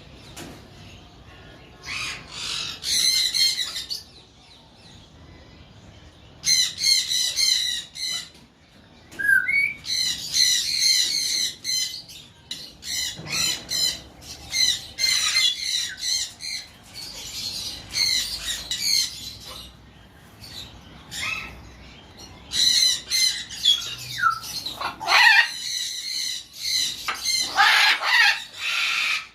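Green-winged macaw squawking: repeated loud, rasping screeches in bouts of a second or two, with short quieter gaps between them.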